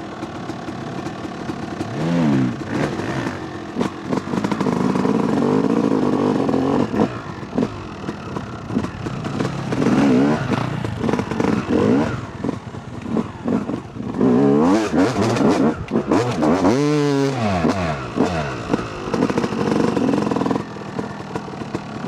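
Dirt bike engine ridden hard, revving up and dropping back over and over, so its pitch keeps rising and falling, with one deep swoop down and back up about 17 seconds in.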